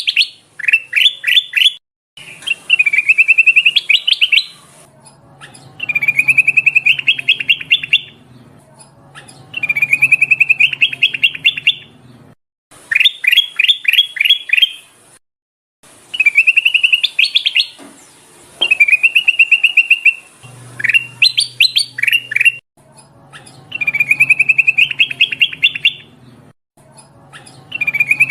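Kutilang emas, a bulbul, singing: loud phrases of about two seconds, each a quick trill of chirps or a run of fast downward-sweeping notes, repeated with short pauses between them. It is a lure call, a female calling males.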